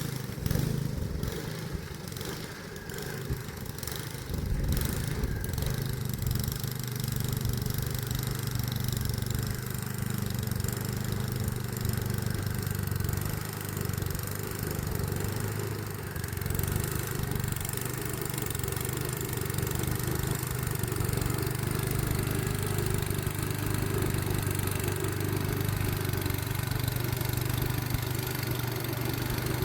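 Snowblower engine running steadily as it blows snow, with a few sharp knocks in the first several seconds.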